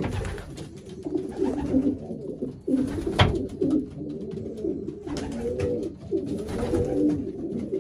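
Several racing pigeons cooing continuously, their low warbling calls overlapping. A single sharp knock comes about three seconds in.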